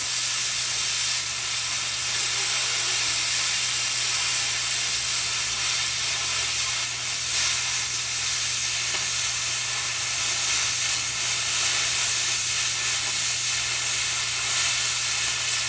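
Oxy-fuel cutting torch burning with a steady hiss as a beginner cuts steel, over a constant low hum.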